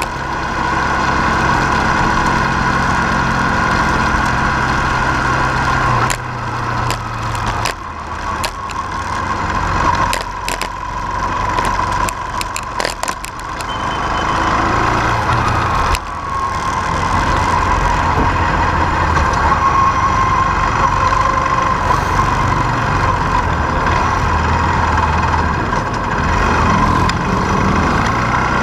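A motor vehicle's engine running steadily, with a continuous whine over it and a scatter of light clicks and knocks in the middle.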